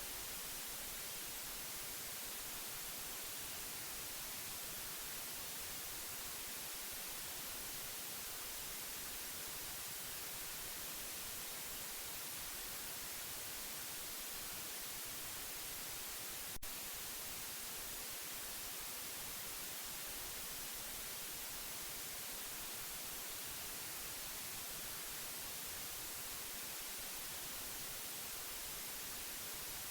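Steady white-noise hiss, even and unchanging, brightest in the high end. A single sharp click a little past halfway through.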